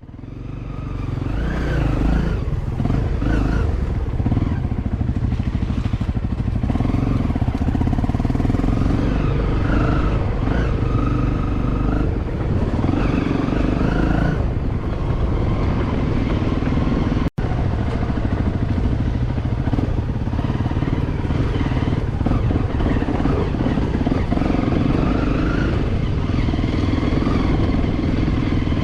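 Dirt bike engine running under load, its pitch rising and falling as the throttle is worked over rough ground. It cuts out for an instant about two-thirds of the way through.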